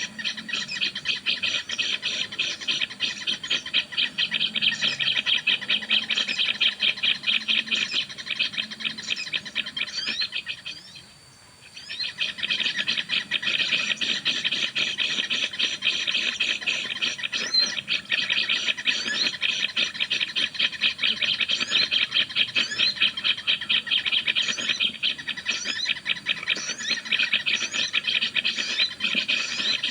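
Recorded sogon bird calls played through a speaker as a trapping lure: a fast, harsh, continuous chattering of rapid strokes, breaking off for about a second around the middle and starting again as the recording loops.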